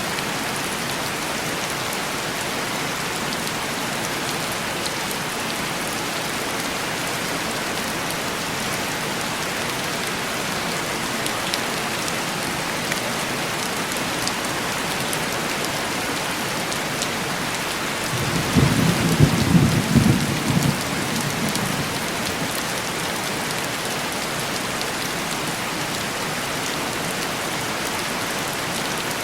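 Steady heavy rain pattering on window glass, with one roll of thunder about two-thirds of the way through that swells and fades over about three seconds.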